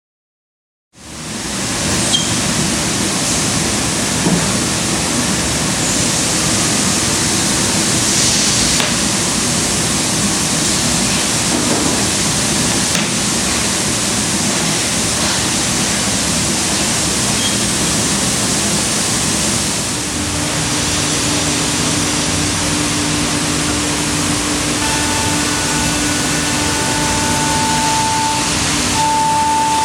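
A 5-axis CNC router machining wood starts up about a second in and runs steadily with a loud rushing noise. About two-thirds of the way through, a steady whine at a few pitches joins it.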